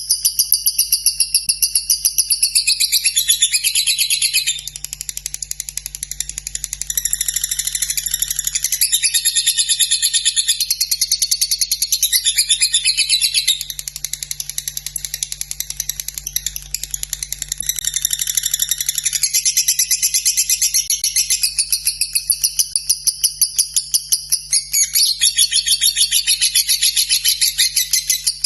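A lovebird singing a long, unbroken chattering song: a very fast run of high ticking notes that merge into a drawn-out trill.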